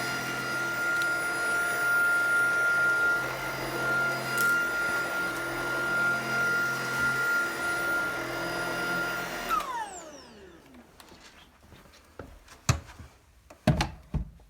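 Tineco cordless stick vacuum running with a steady high whine, then switched off nearly ten seconds in, its whine falling away as the motor spins down. A few knocks follow near the end.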